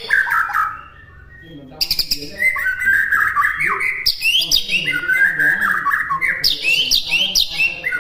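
White-rumped shama (murai batu) singing a fast, varied song of gliding whistles and chirps, breaking off for about a second near the start before resuming.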